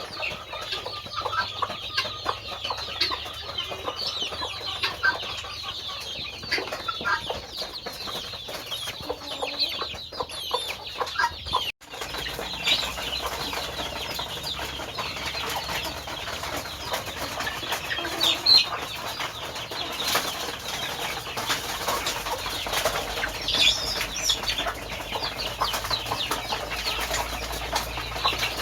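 Chickens clucking, with many short high calls throughout. The sound drops out for a moment about twelve seconds in.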